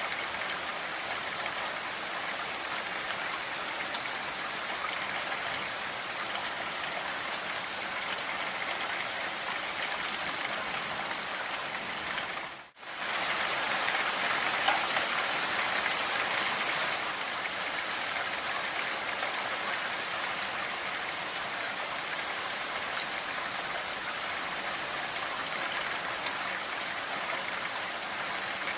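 Steady rain falling, an even hiss of many drops. About halfway through it cuts out for a split second, then comes back a little louder for a few seconds.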